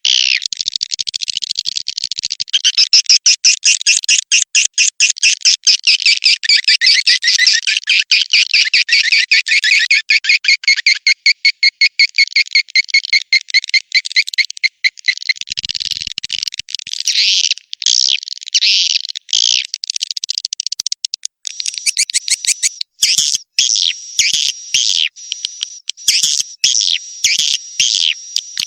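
Swiftlet lure-call recording: rapid, dense chattering trills of swiftlet chirps, many short high notes a second, played continuously to attract swiftlets to nest. From about two-thirds in, a thin steady high whistle-like tone runs beneath the chirps.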